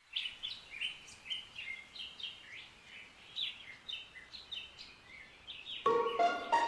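Birds chirping and twittering, many short quick calls one after another. Near the end a marimba starts playing a melody.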